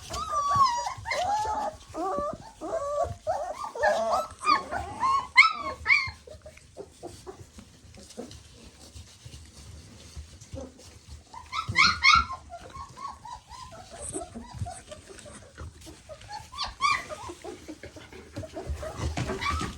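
Three-week-old German Shepherd puppies whimpering and squealing in a busy chorus of short, wavering calls, in bursts with quieter gaps between: excited at their mother's arrival to nurse.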